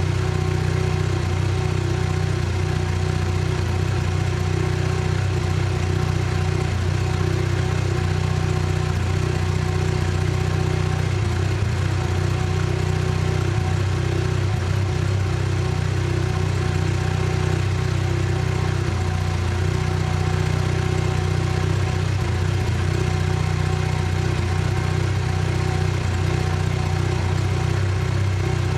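Mazda RX-7 FC3S's turbocharged twin-rotor rotary engine idling steadily, holding an even speed.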